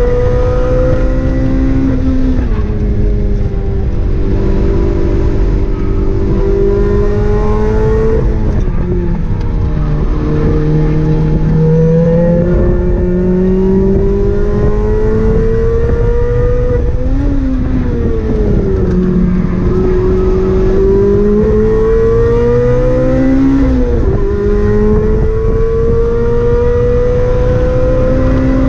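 Lotus Exige S engine heard from inside its cockpit on a fast lap. The engine note climbs steadily under acceleration and falls back sharply at each gear change, about four times, over steady road and wind noise.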